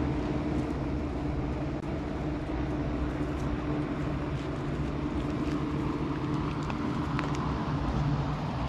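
Outdoor ambience dominated by a steady low mechanical hum, with a few faint ticks and rustles over it.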